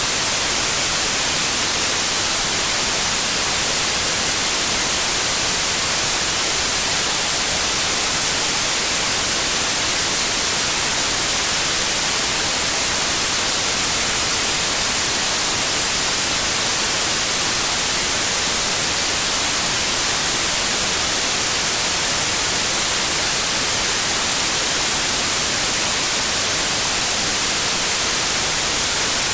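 Steady, unbroken white noise, a hiss with its energy strongest in the high frequencies, with no changes in level.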